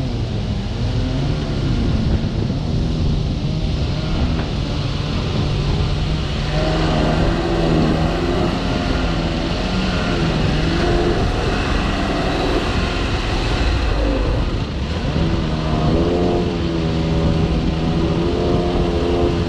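Engine of a compact track loader running steadily, its pitch rising and falling at times.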